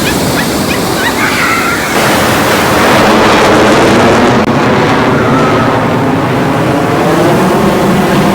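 Ocean surf breaking and washing up the shore, a loud, steady rush that swells about two to three seconds in.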